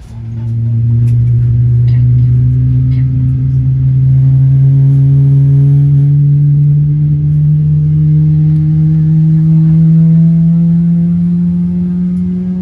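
A GE90-115B turbofan engine on a Boeing 777-300ER starting up. A loud, low whine comes in suddenly and rises slowly and steadily in pitch as the engine spools up.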